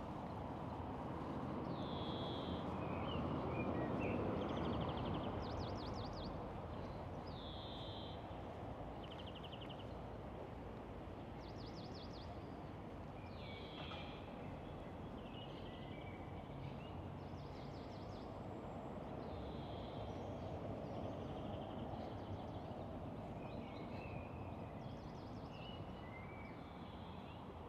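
Birds chirping repeatedly, short high calls and quick trills, over a steady low background rumble that swells about four seconds in.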